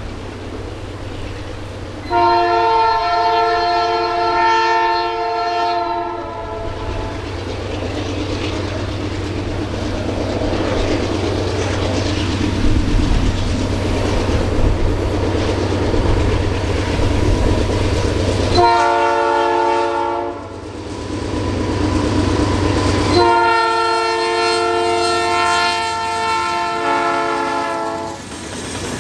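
Diesel freight locomotive's air horn sounding three blasts, long, short and long, over the low running rumble of the passing locomotive engines.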